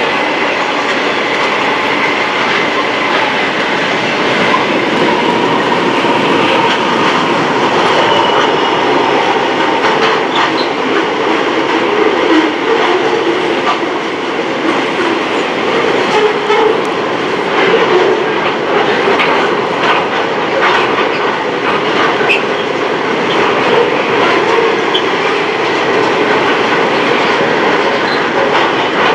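Two trains passing each other on double track, the Indian Pacific's stainless-steel passenger cars and a freight train of steel-coil and container wagons: a steady rumble of steel wheels on rail with clickety-clack over the rail joints, the clicks growing thicker from about ten seconds in.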